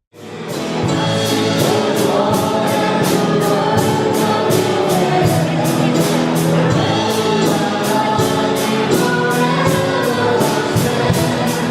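A gospel song with choir singing over a steady beat, starting abruptly.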